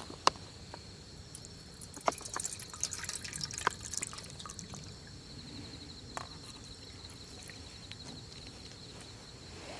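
Water dripping and trickling, with a few sharp clicks between. From about halfway, insects chirp steadily in the background.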